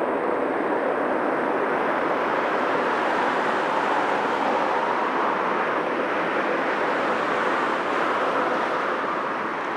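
Jet airliner engine noise: a steady, even rushing sound that holds level throughout.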